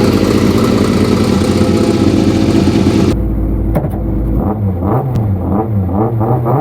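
Fiat 131 Abarth rally car's engine running hard at high revs. About three seconds in the sound changes abruptly, and the engine revs rise and fall in quick repeated swings.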